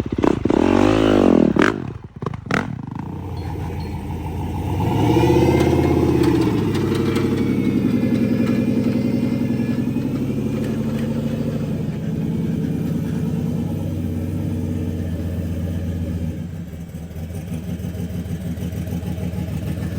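A vehicle engine revving up and down, then running on steadily with some rises in speed.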